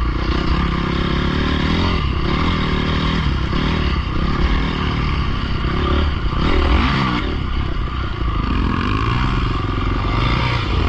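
Dirt bike engine running hard, its pitch climbing and dropping several times as the throttle is worked.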